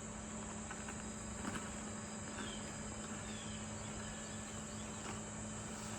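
Faint crunching of a snack being chewed: a few soft clicks over a steady high-pitched hiss and a low hum.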